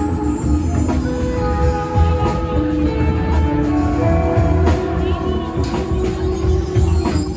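A live band playing, with drums, a pulsing bass line and held melodic notes that move from one pitch to the next.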